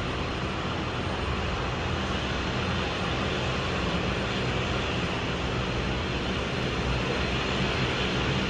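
Aircraft engines running, a steady rushing noise with a low rumble that grows slightly louder.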